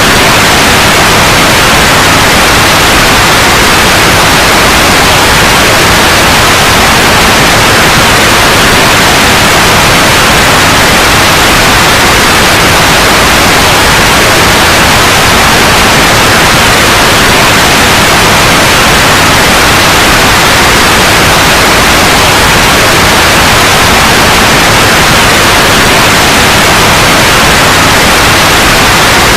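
Loud, steady white noise, a constant even hiss that does not change.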